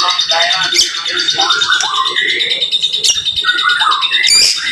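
White-rumped shama (murai batu) singing a rapid, dense run of varied notes: quick whistles, rising and falling glides and harsher calls packed close together, the rapid-fire 'tembakan' song style that keepers prize. A steady high tone runs underneath.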